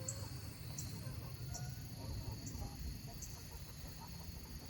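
Chickens clucking softly as they settle onto the roost for the night, with a high insect chirp repeating about every 0.8 seconds.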